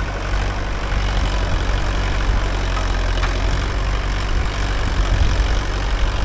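Mahindra 575 DI tractor's four-cylinder diesel engine running steadily. The driver says it runs as if choked and suspects a problem in the diesel tank.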